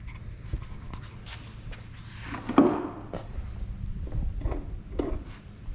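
Light aircraft engine cowling side panels being shut and opened by hand: scattered clicks and knocks of the panel and its latches, with one louder thump about two and a half seconds in.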